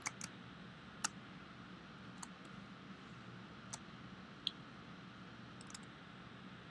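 Computer mouse clicks, about seven short sharp clicks at irregular intervals, over a faint steady room hum.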